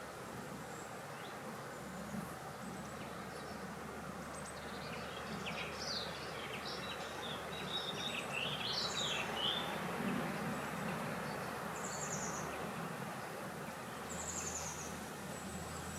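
Steady wind with birds chirping in a quick burst of calls in the middle, and short high buzzy trills, typical of insects, coming every couple of seconds near the end.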